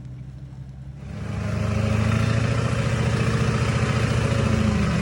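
Chevy Duramax diesel engine of a monster mud truck running at a low idle, then about a second in it gets much louder and holds a steady high-revving run.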